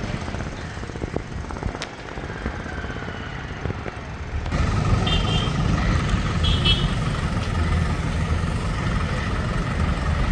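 Diesel engine of a Hydra mobile crane running steadily as it hoists a steel pile reinforcement cage upright, with a single sharp click about two seconds in. The engine grows louder about four and a half seconds in.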